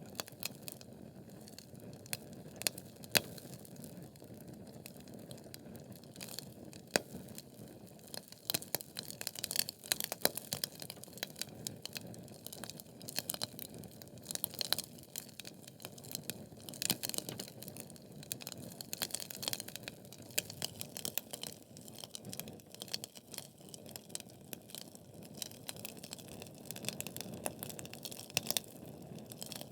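Wood fire burning in a fireplace: logs crackling with many sharp irregular pops over a steady low rush of flame, the pops coming thicker from about eight seconds in.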